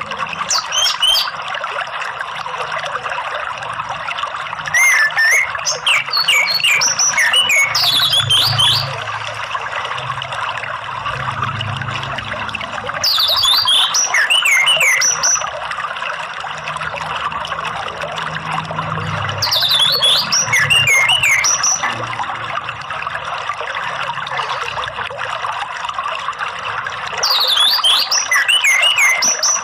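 An orange-headed thrush (anis merah) sings its loud full song in phrases of rapid, sweeping whistled notes lasting two to four seconds, repeated with pauses of several seconds between them. Under it runs a steady trickle of running water.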